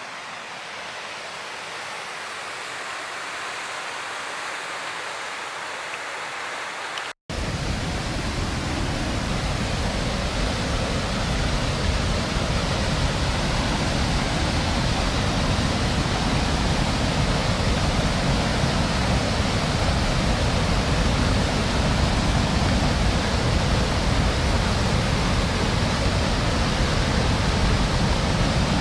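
Kivach waterfall on the Suna river: a steady rush of falling water. About seven seconds in there is a split-second break, after which the rush is louder and deeper, and it slowly grows louder still.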